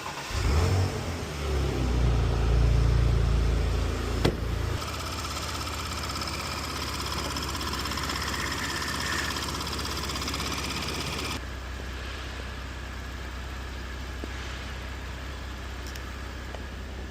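Porsche Macan S 3.0-litre twin-turbo V6 starting up, running loud and deep for a few seconds on start-up before dropping to a steady idle. About eleven seconds in, a higher-pitched sound over the idle stops and the engine runs on a little quieter.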